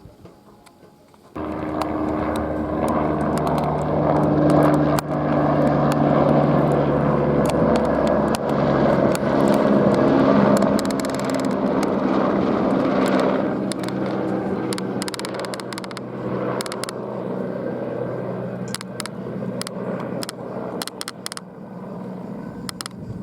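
Airbus AS350 helicopter flying close, its turbine and rotor noise loud and steady, starting abruptly about a second in and slowly fading in the second half as it moves away.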